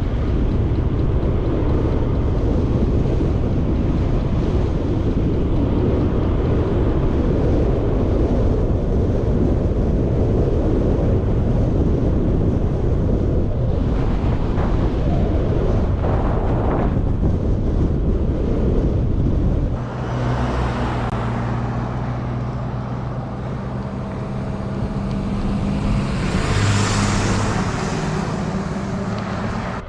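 Wind buffeting the microphone of a moving road bike. About two-thirds in the wind noise drops away and the steady hum of motor traffic takes over, with one vehicle passing close near the end.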